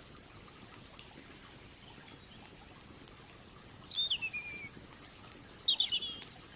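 A bird calls several times in the second half: a downward-sliding chirp, then thin high notes and a quick cluster of chirps. Underneath are scattered light crackles of a burning wood campfire and a soft steady wash of flowing creek water.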